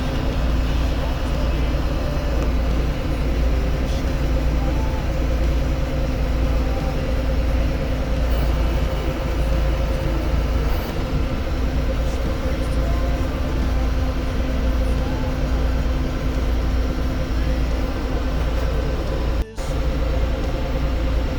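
Tractor engine running steadily, with a deep rumble and a constant hum. It drops out for a moment near the end.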